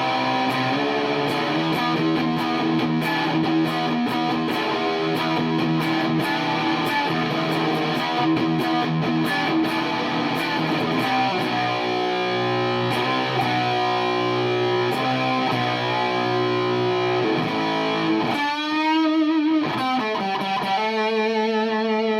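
Electric guitar played through a Sola Sound Mark IV Tone Bender germanium fuzz pedal with the fuzz turned full up: thick, sustained distorted chords and riffs. Near the end come bent notes that waver in pitch.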